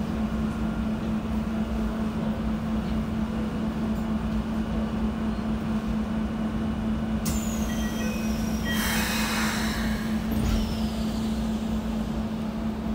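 Keikyu 1000-series electric train running, heard from inside the car: a steady low hum over track rumble. About seven seconds in, a high whine from the Toshiba IGBT-VVVF traction inverter sets in and falls in pitch, and a burst of hiss follows about two seconds later.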